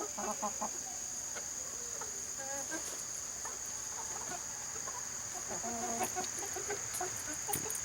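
Australorp chickens clucking quietly, a few short scattered calls.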